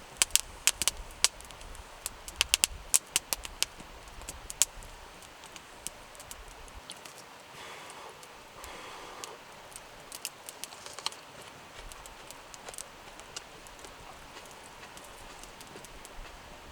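Wood fire crackling, with a quick run of sharp pops in the first few seconds and scattered pops after, over the steady rush of a shallow stream.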